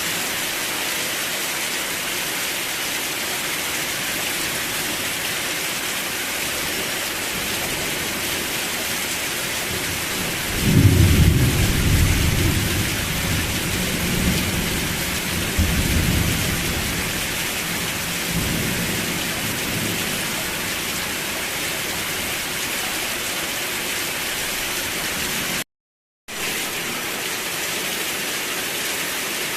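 Steady rain hiss with a deep thunder rumble that rolls in about a third of the way through, swells twice and dies away over several seconds. Near the end the sound drops out to silence for about half a second.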